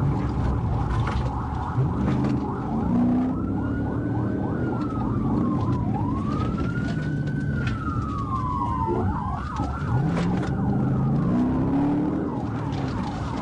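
Police car siren wailing, its pitch slowly rising and falling every two to three seconds, over the pursuing patrol car's engine and road noise.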